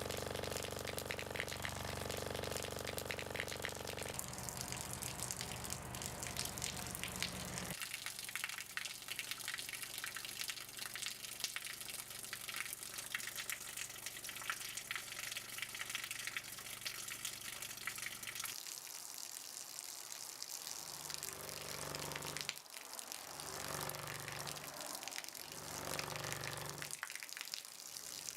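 Running water gushing in a steady stream, with a steady low hum under it for the first several seconds and a few swelling, pulsing surges in the last ten seconds.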